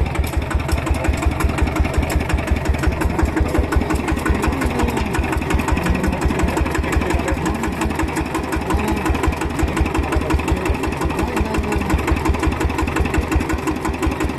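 Old single-cylinder engine running steadily close by, with a quick, even beat of firing strokes.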